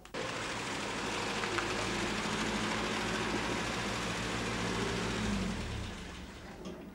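Opel Rekord C's engine running as the car rolls in, its note dropping and fading about five to six seconds in as the car comes to a stop.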